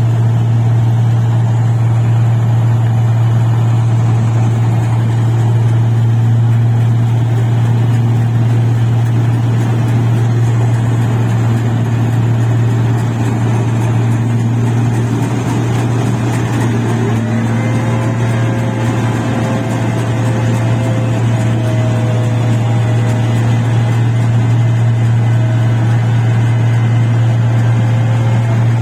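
Engine of a paddy (rice) machine running steadily at constant speed, a loud low hum. A faint higher whine joins about two-thirds of the way through.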